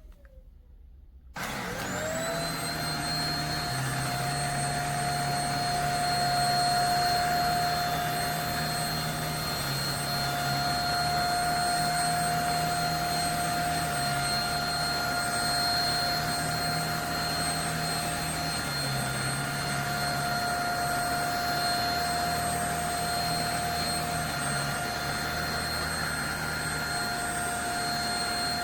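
JPHYLL handheld mattress vacuum switched on about a second in, its motor spinning up quickly to a steady high whine over a loud rush of airflow. Underneath, a lower hum shifts pitch a few times while it runs.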